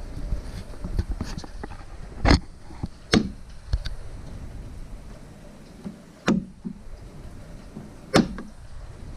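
Workshop handling noise from the wooden kayak frame: four sharp knocks with small clicks and rustles between them, as parts and tools are moved and set against the wood.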